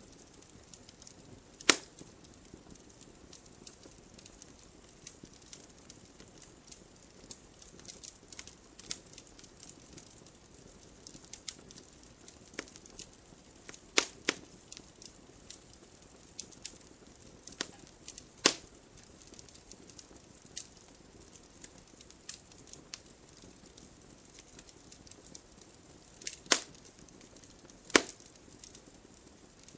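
Burning wood fire crackling: scattered sharp pops and snaps, five of them louder, over a faint low hiss.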